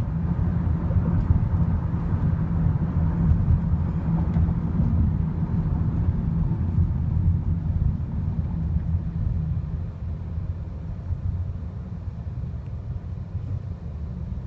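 BNSF grain train rolling by, a steady low rumble that eases off from about ten seconds in as it moves away.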